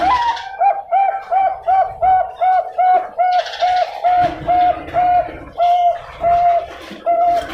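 Bangkok-line zebra dove (perkutut) singing: a long run of about eighteen short, even coos, spaced a little wider toward the end.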